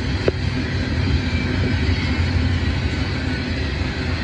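Freight train of coal hopper cars rolling past on the rails: a steady low rumble of wheels and cars, with one short click just after the start.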